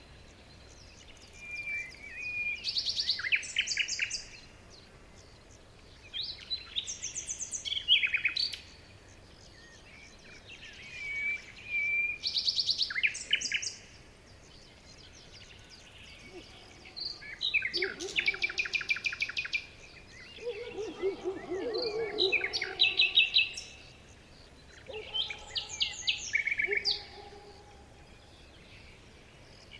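Forest songbirds singing in separate phrases of a few seconds each, fast high trills and chirps with short pauses between, and a lower-pitched call joining about two thirds of the way through.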